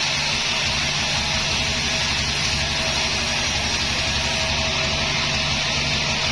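Sawmill machinery running steadily: a low engine drone under a constant loud hiss.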